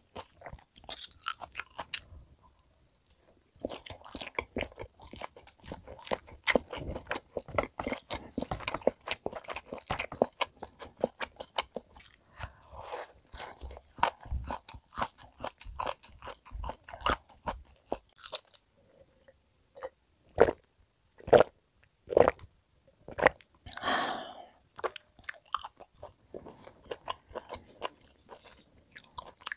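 Close-miked chewing of a mouthful of top blade steak: a dense run of quick, moist clicks and smacks after a short quiet start, thinning to a few separate, louder smacks later on.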